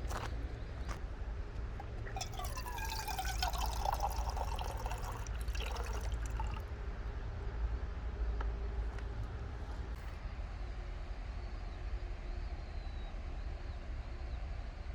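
Liquid poured into a container for about four seconds, starting about two seconds in, its pitch shifting as the container fills, over a steady low rumble.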